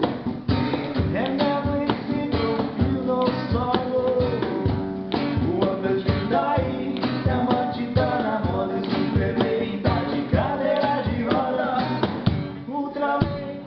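A band playing a rock song: guitar and drums over a steady beat, with a singing voice.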